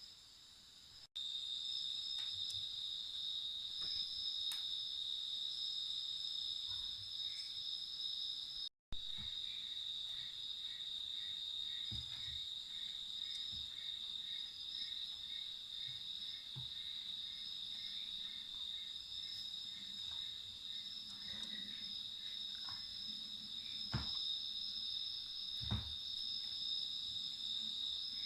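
Steady, high-pitched chorus of crickets, with a regular series of short chirps from another insect through the middle. A few soft knocks and two sharper thumps near the end.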